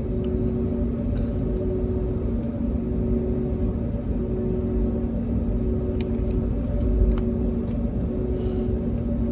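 Cabin noise of an Airbus A321neo during takeoff: the engines' steady drone with a few hum tones over a low rumble, and a heavier low bump about seven seconds in.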